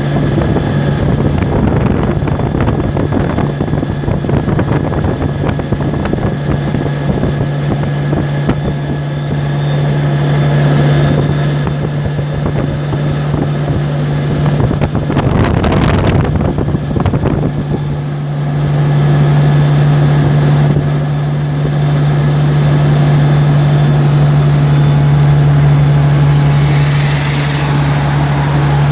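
Vehicle driving on a highway: a steady low drone of engine and tyres on the road, with a brief louder rush about halfway through.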